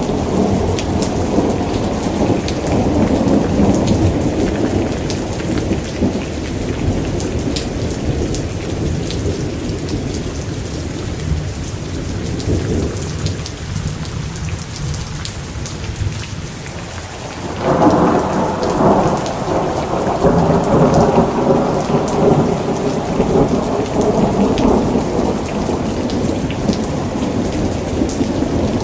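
Steady rain with rolling thunder. One long rumble fades away through the middle, and a new roll of thunder breaks in suddenly about two-thirds of the way through and rumbles on.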